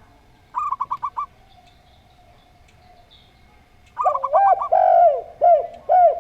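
Dove song from a zebra dove and spotted dove recording. About half a second in comes a quick run of six clipped high notes. Near four seconds in, another quick run leads straight into a string of lower, arched coos. A faint steady tone hums underneath.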